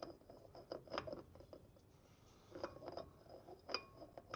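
Faint, scattered metallic clicks and clinks of a large socket and hand tools against a Land Rover Defender 90's front hub, a few louder taps near the end.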